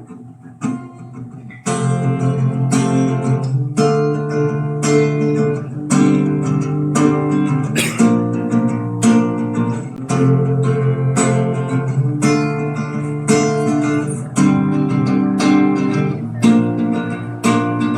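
Acoustic guitar playing a chord progression as a song's instrumental introduction: a few soft notes, then steady strummed chords from about two seconds in, roughly one strum a second.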